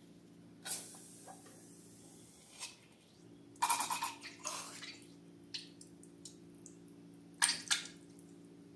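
Slime being handled and squeezed: a few short wet squelches and sticky pops, the longest run about halfway through and a pair near the end, over a steady low hum.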